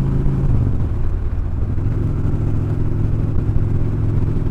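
Motorcycle engine running under way while riding. Its note drops a little about half a second in, then holds steady.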